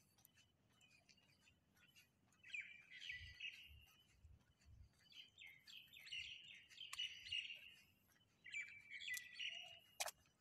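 Faint chirping of small birds, coming in three bursts of quick high calls with short gaps between them. A single sharp click sounds just before the end.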